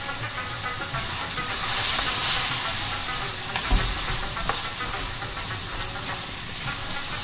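Lamb karahi sizzling in a steel karahi wok as a long-handled spoon stirs it. The sizzle swells about two seconds in, and the spoon gives a few short scrapes and knocks against the pan.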